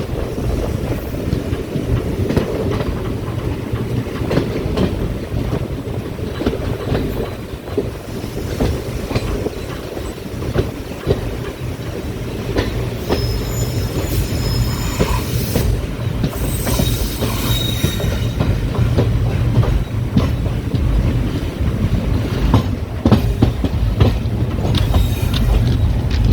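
Passenger train running on the rails: a steady low rumble with wheel clatter, and brief high-pitched wheel squeals about halfway through.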